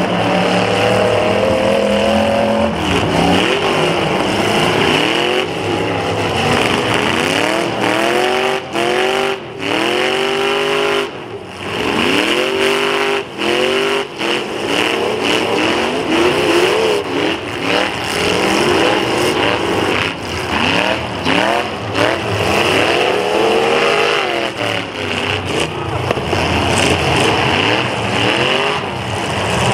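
Engines of several demolition derby cars revving up and down over and over as they drive around and ram each other, the pitches overlapping in repeated rising and falling sweeps.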